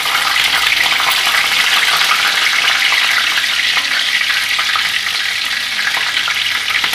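Chopped green chillies and cumin seeds sizzling and crackling in hot oil in a steel kadai on a gas flame: a loud, steady frying hiss with small pops throughout.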